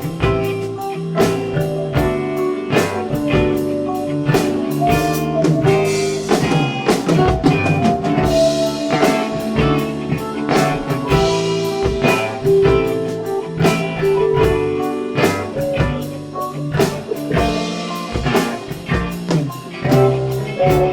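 Live band of electric guitars, bass, drum kit and keyboards playing an instrumental passage of a slow R&B ballad, with no vocals, steady drums under sustained guitar and keyboard notes.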